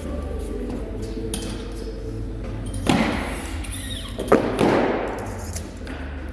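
Two heavy thuds about a second and a half apart, each followed by a short rushing decay, over background music.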